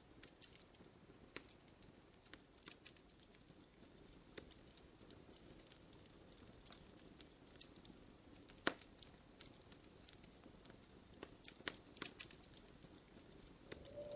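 Wood fire burning in a fireplace, faint: scattered small pops and snaps of the wood over a low hiss, with one sharper pop a little past halfway and a quick run of snaps near the end.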